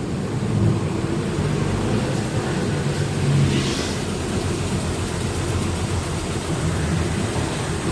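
Truck engine running with road noise: a steady low rumble. A short hiss comes about three and a half seconds in.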